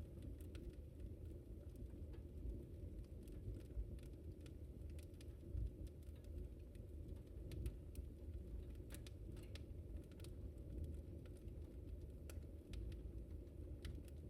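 Wood fire burning in a fireplace: a steady low rumble of flames with irregular sharp crackles and pops, several a second at times.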